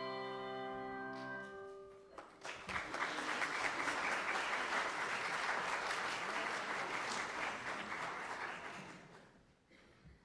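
The final sustained chord of a piece of music stops just under two seconds in, followed by audience applause that lasts about seven seconds and fades away near the end.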